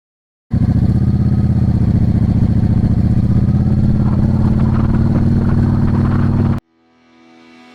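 Yamaha V Star 650's air-cooled V-twin engine running steadily, loud and low-pitched. It starts suddenly about half a second in and cuts off abruptly near the end.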